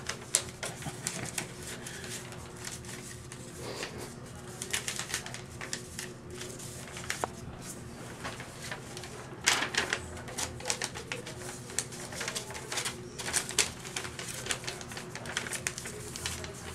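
Sheets of paper being handled and folded into paper airplanes: irregular crinkling and sharp creasing clicks, coming in thicker flurries in places.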